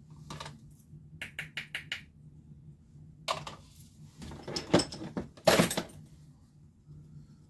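Spoon clinking and scraping against a container and a funnel as powder is scooped and poured into the tube: a quick run of small clicks, then louder scraping and rattling about three to six seconds in.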